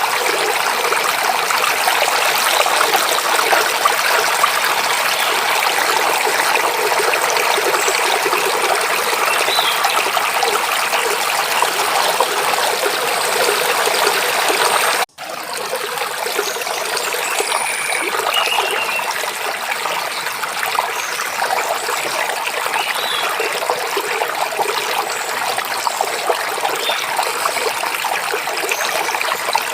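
Babbling mountain stream running steadily, a bright even rush of water, broken by a split-second dropout about halfway through, after which it runs on slightly softer. A few faint bird chirps sound here and there over the water.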